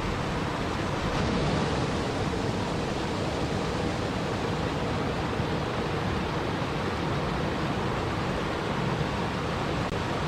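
Steady, even rushing of water, with no distinct drops, splashes or other events.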